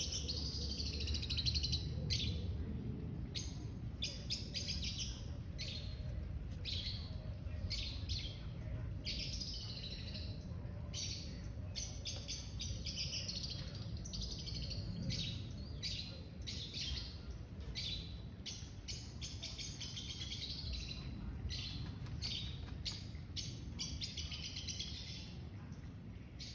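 Birds chirping, short high calls repeating every second or so, over a steady low rumble.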